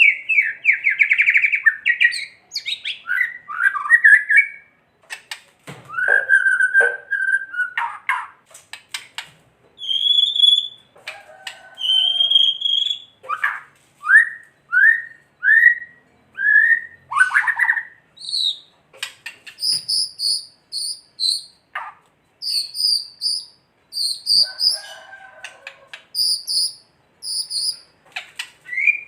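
White-rumped shama (murai batu) singing a varied song: a fast rattling 'kretekan' at the start, then whistled slurs and short repeated phrases. Later come groups of four or five quick high notes.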